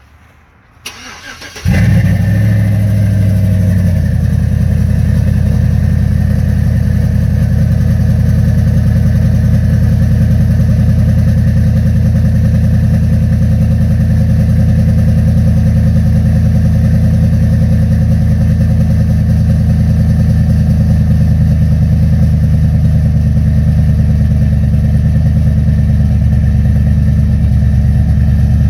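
Cammed Chevrolet Silverado V8 with long-tube headers cold starting: the starter cranks briefly about a second in, the engine catches and flares, then settles a couple of seconds later into a steady, loud, choppy cam idle. It is a cold start after nine days sitting below freezing.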